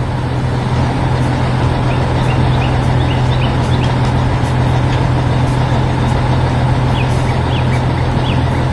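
Dump truck engine running steadily with a deep, even hum, with faint short high chirps scattered in the background.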